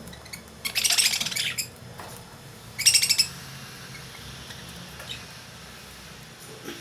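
Caged lovebirds calling: a burst of high chirping calls about half a second in, then a short, sharper high call about three seconds in, with quieter moments between.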